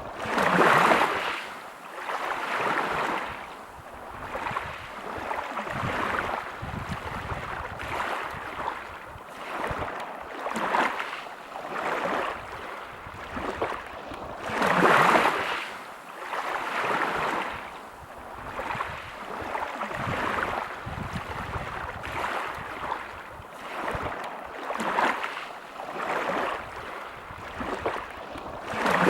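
Sea waves breaking on a pebble beach, surging in and washing back every couple of seconds. Two bigger waves stand out, one about a second in and one about halfway through.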